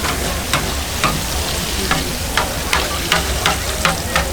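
Food frying in hot oil, a steady sizzle, with frequent sharp, irregular clicks and knocks over it.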